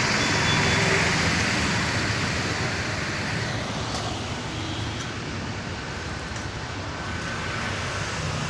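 Steady road traffic noise, a rumbling wash of passing vehicles, a little louder in the first couple of seconds.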